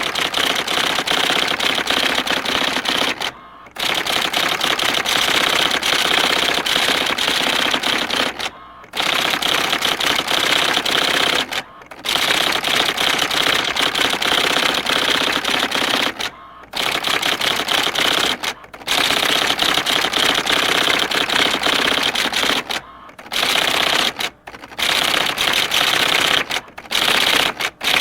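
Typewriter keys struck in fast runs of rapid clicks, each run lasting a few seconds, with short pauses between runs.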